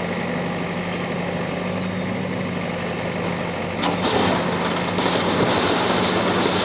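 Engine of a demolition bulldozer running steadily with a low hum, growing louder and harsher about four seconds in.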